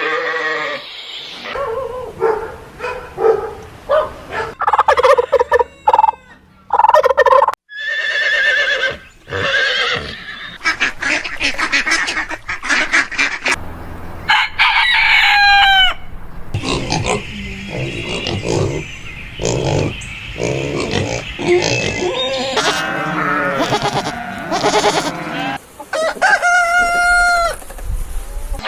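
Chickens calling: roosters crowing and hens clucking, in a run of short clips joined by abrupt cuts.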